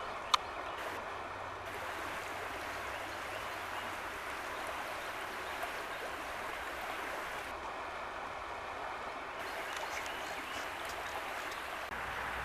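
Flowing stream water rushing steadily. A single sharp click comes just after the start.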